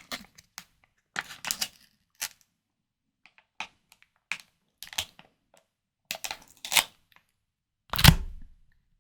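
Close-miked crisp crackles and clicks from food being handled, coming in short scattered bursts, with one heavier knock about eight seconds in.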